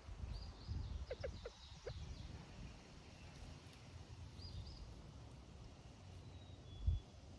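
Outdoor ambience: low wind-like rumble with a few faint, high bird chirps, a handful of short soft clicks about a second in, and a dull thump near the end.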